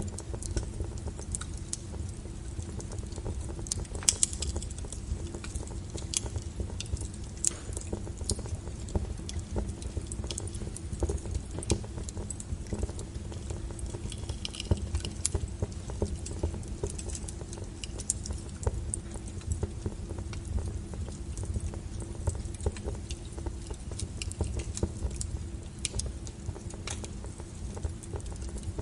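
Wood fire burning with a steady low rumble and frequent irregular crackles and pops, a few of them sharper and louder.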